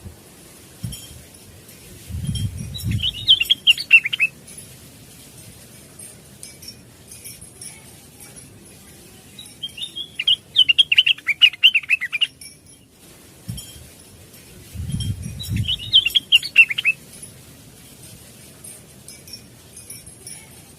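A cucak wilis leafbird singing three short bursts of fast, chattering warbled notes, with pauses between them. Low thuds or flutters come with the first and last bursts.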